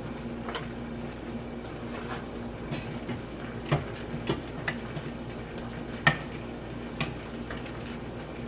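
A spoon or fork clinking and scraping against a dish in scattered light taps, the loudest about six seconds in, over a faint steady hum.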